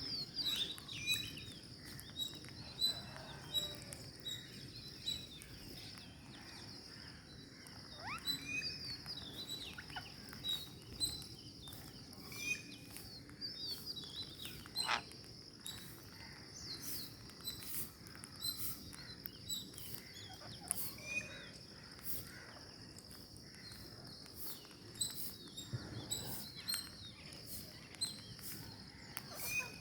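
Ring-necked parakeets chirping with many short calls and a few sliding squawks, over a steady high-pitched tone.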